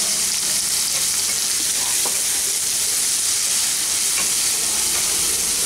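Onion-tomato masala frying in mustard oil in a non-stick kadai, a steady sizzle as it is stirred and scraped round with a spatula while the spices are sautéed down. A few faint ticks of the spatula against the pan.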